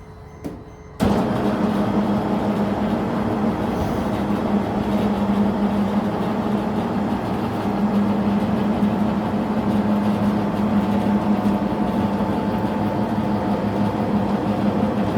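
A steady mechanical drone with a strong low hum, cutting in abruptly about a second in and holding level.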